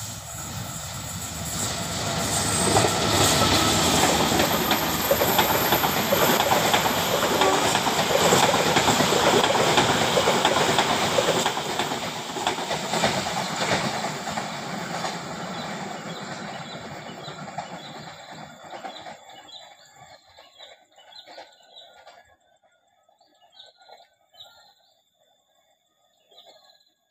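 A train passing close by, its wheels clattering on the rails. The noise builds over the first few seconds, stays loud for about ten seconds and then fades away, leaving faint bird chirps near the end.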